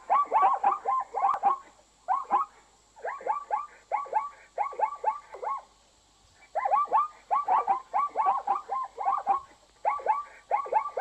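Plains zebras calling: a string of short, yelping barks, several a second, in bouts broken by brief pauses.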